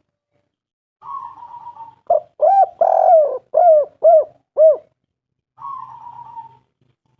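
Spotted dove calling: a rough, purring note, then a run of about six short rising-and-falling coos, one of them longer, then another rough note near the end.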